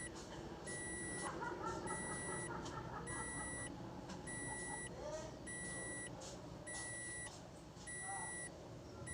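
An electronic beeper sounding a steady high-pitched beep over and over, each beep lasting a little over half a second and repeating about every 1.2 seconds.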